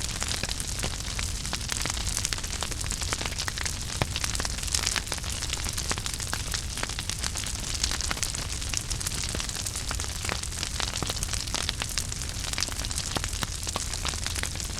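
Wood fire in a fireplace burning with constant crackling and frequent sharp pops over a steady low rumble and hiss.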